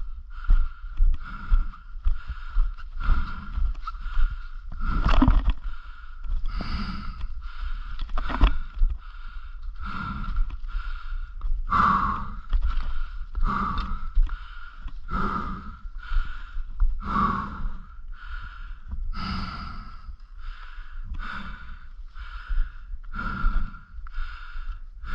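A cyclist panting hard while pedalling up a very steep climb, a heavy breath about every two seconds, over a steady low rumble.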